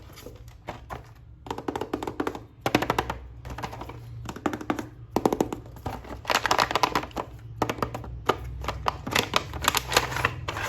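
Handling of a plastic action-figure toy or its packaging: clusters of quick clicks and taps like keyboard typing, over a steady low hum.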